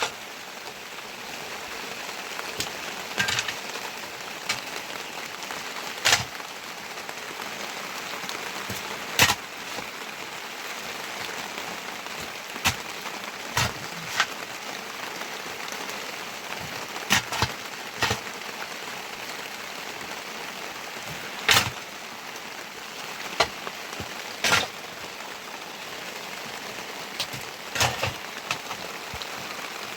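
Steady heavy rain, with sharp loud taps at irregular intervals every few seconds.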